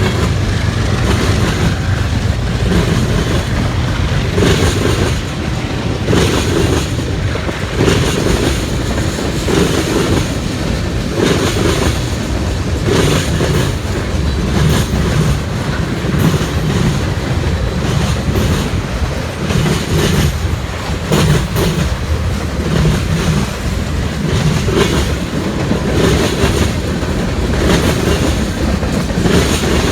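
A CSX train rolling past, its wheels clacking over the rails again and again, over a steady low rumble.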